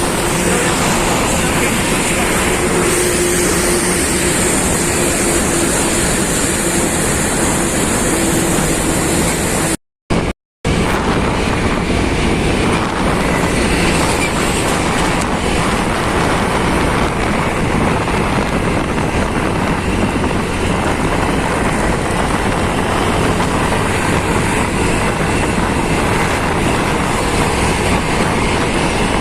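Wind rushing over the microphone and road noise from a moving motorcycle, with a faint steady engine hum in the first few seconds. The sound cuts out twice, briefly, about ten seconds in.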